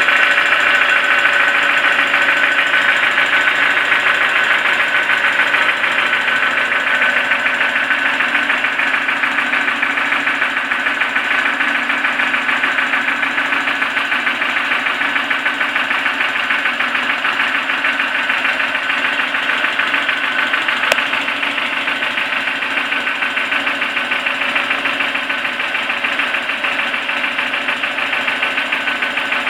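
Toyota 4E-FE 1.3-litre four-cylinder petrol engine running steadily with a rapid, even knocking from inside the engine, of a cause the owner has not identified. One sharp click stands out about 21 seconds in.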